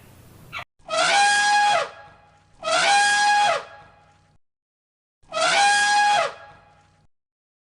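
An animal calling three times, each call about a second long, held on one pitch and then dropping away at the end.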